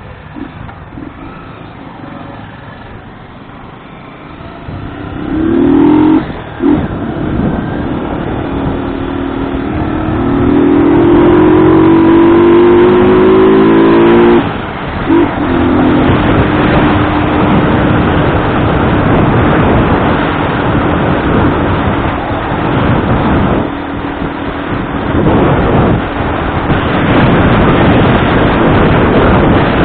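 A vehicle's engine pulling away, its pitch rising twice as it accelerates, with a sudden drop about fourteen seconds in. It then runs at a steady speed under heavy wind and road noise.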